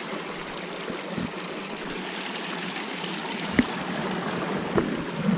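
Flowing water running steadily, with two sharp knocks about three and a half seconds in and again about a second later.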